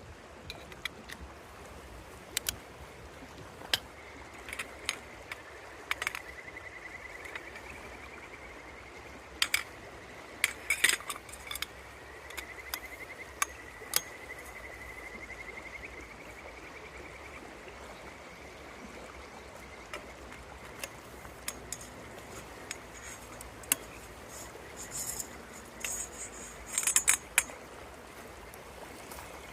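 A river running steadily, with scattered sharp metallic clinks and taps, clustered twice. Through the middle stretch a high, fine trilling tone runs on and then fades.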